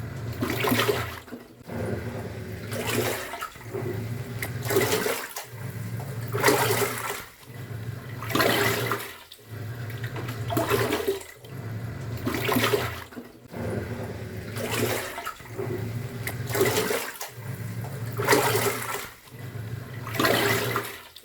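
Top-loading washing machine agitating a load. The pulsator motor hums in spells of about a second and a half with short breaks between them, and water sloshes and swishes in the tub with a surge about every two seconds.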